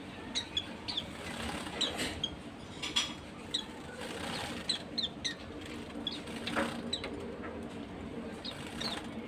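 White-eyes (pleci) giving short, high chirps scattered throughout, some in quick pairs, with a brief flutter of wings about three seconds in, over a faint steady low hum.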